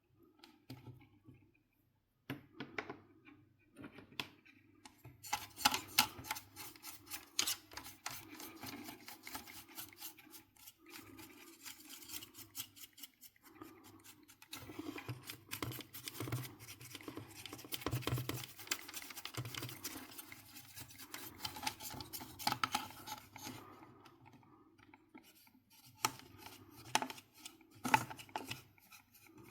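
Hand work on console parts: repeated scraping and rubbing with many small sharp clicks and ticks, busiest from about five seconds in and pausing briefly near the end.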